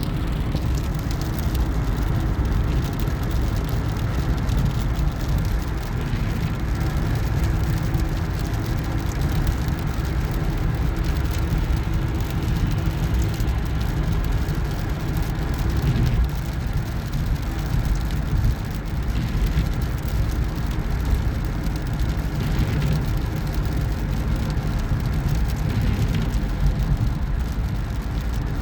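Steady low rumble of a car driving, with road and engine noise holding even throughout.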